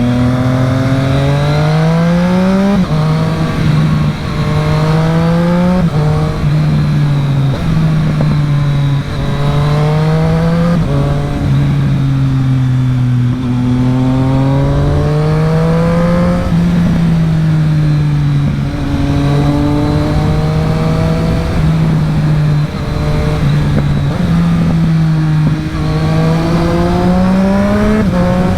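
2020 Triumph Street Triple RS's 765 cc inline-three engine, breathing through a LeoVince LV One EVO slip-on exhaust, heard on board while ridden through twisty road. The revs climb and fall again and again, with sharp drops at gear changes, about three seconds in and again about six seconds in.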